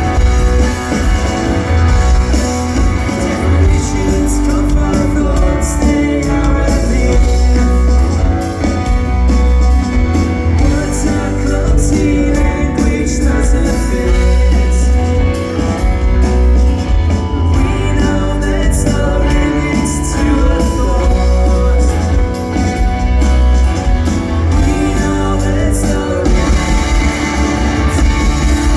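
Live rock band playing, with loud electric guitars, bass and drums and a singing voice, heard through a concert recording in a large hall.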